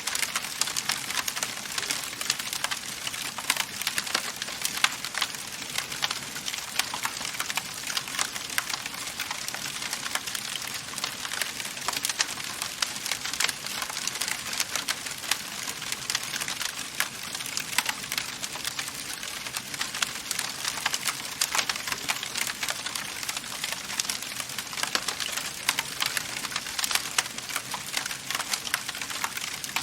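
Wood fire crackling steadily in a fireplace: a dense, continuous patter of small snaps and pops over a soft hiss, with a few louder pops here and there.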